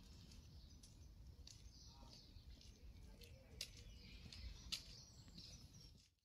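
Near-silent garden ambience: a faint low rumble with scattered short, high bird chirps, the two sharpest a little after halfway. The sound cuts out just before the end.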